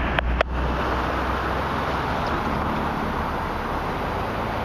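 Long freight train of mixed cars and autoracks rolling past: a steady low rumble and rush of wheels on rail, with two sharp clicks just after the start.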